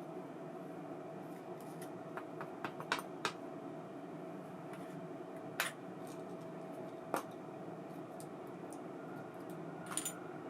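Scattered light clicks and taps of a small metal baitcasting reel being handled, an ABU Ambassadeur 2500C, over a steady low hum.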